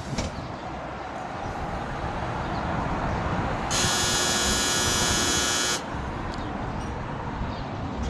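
An electric buzzer sounds for about two seconds, then cuts off suddenly, over a steady rumble of urban background noise.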